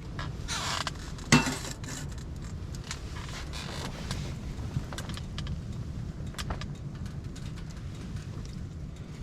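Wind buffeting the microphone as a steady low rumble, with scattered light clicks and clinks of camp gear being handled; the loudest is a sharp click about a second and a half in.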